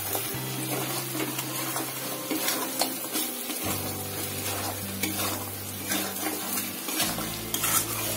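Chicken pieces sizzling as they fry in oil and masala in a metal pan, while a spatula stirs them with repeated short scraping strokes against the pan.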